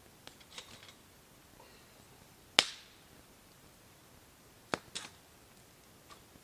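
Campfire wood crackling: a few sharp, separate pops over a quiet background. The loudest pop comes about two and a half seconds in, with two more a little after the middle.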